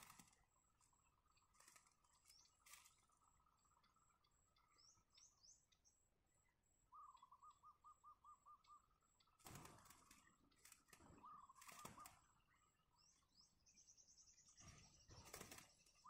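Faint bird calls: a run of about ten quick, even notes about seven seconds in, with shorter runs later, and high thin trills. A few short rustles come in between.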